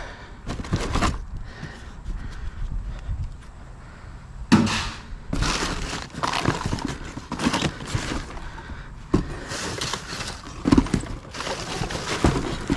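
Scrap pieces being picked up and handled: an irregular run of knocks, scrapes and clatters, the loudest about four and a half seconds in.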